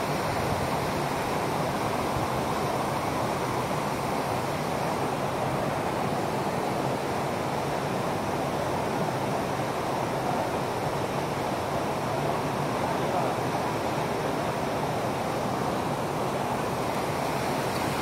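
Waterfall pouring into a rock pool: a steady rush of falling water.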